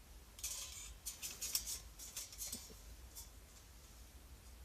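Small metal camping cookware being handled: a quick run of scraping, rustling strokes in the first half, then a couple of light clicks.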